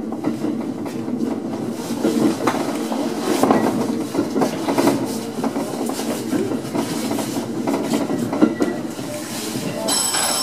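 Three-car electric multiple unit running slowly, heard from inside the driver's cab: a steady rolling rumble with irregular clicks and knocks as the wheels cross rail joints and points on the approach to a station. A high ringing tone starts near the end.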